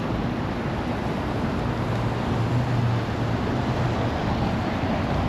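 Steady road noise of a car driving on a wet road, with the engine's low hum growing a little stronger about two seconds in.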